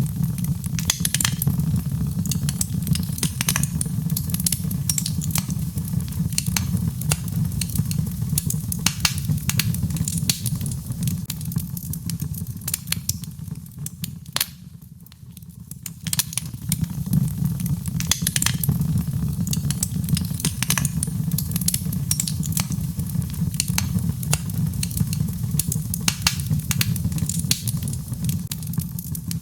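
Birch logs burning in a fireplace: frequent sharp crackles and pops over a steady low rumble, which dips briefly about halfway through.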